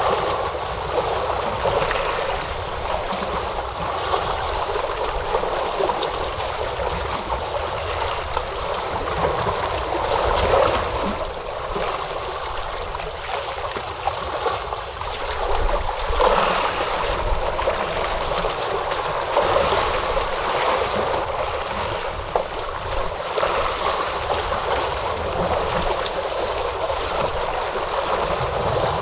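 Ocean surf: waves breaking and washing ashore in a steady rush that swells louder every few seconds.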